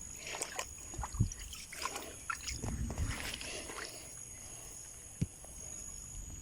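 Water sloshing, with scattered light splashes and knocks, as someone gropes in shallow water trying to catch a frog. A sharp click sounds about five seconds in, and a thin steady high tone runs beneath.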